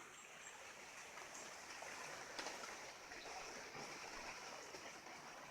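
Faint, steady rushing noise of wind outdoors, with a few soft ticks.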